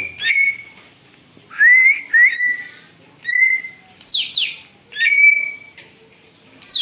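Cucak ijo (green leafbird) calling noisily: a series of loud, clear whistles at about the same pitch, some held level and some rising, with quick down-slurred sweeps about four seconds in and again near the end.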